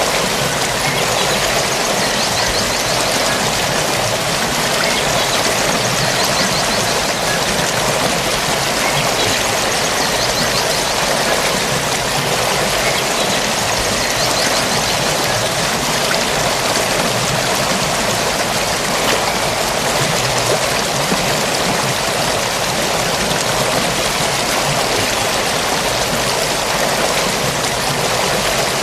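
Forest stream flowing steadily over rocks, a constant rushing and babbling of water. Faint short high chirps come through every few seconds.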